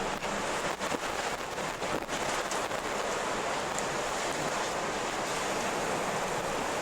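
Strong wind blowing steadily, a dense rushing noise with a few brief dips in its first two seconds.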